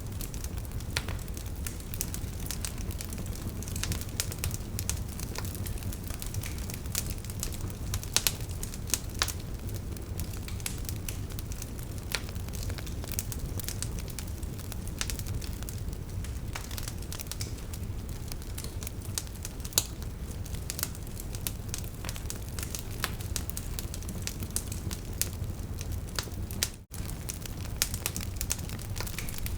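Wood fire crackling: frequent sharp pops and snaps of burning logs over a steady low rush of flame, with a momentary dropout near the end.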